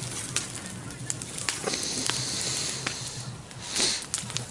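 Bonfire crackling with scattered sharp pops, and hissing as the burning material vents: a steady hiss for about a second near the middle and a louder hissing burst near the end.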